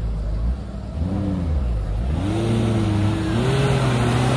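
Off-road 4x4's engine revving under load as it climbs a steep dirt slope. The revs rise briefly about a second in and drop back, then climb and hold high from about two seconds in, joined by a rushing noise.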